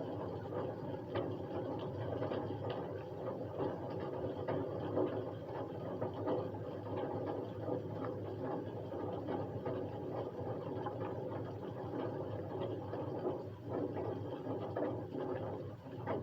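Steady rain: many small drop impacts ticking irregularly over a dense, even hiss, with a faint steady hum underneath.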